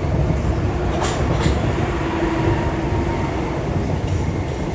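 Southeastern Class 465 electric multiple unit passing below at speed: a steady wheel-and-rail rumble with a faint steady hum, and two sharp clicks about half a second apart as the wheels cross the pointwork.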